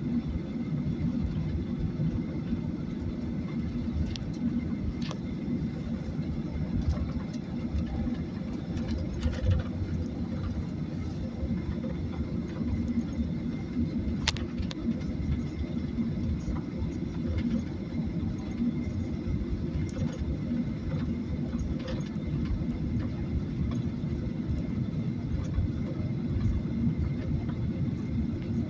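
Steady low rumble of a Boeing 737 in motion, engine and airflow noise heard inside the passenger cabin, with a faint steady high whine and a few soft clicks.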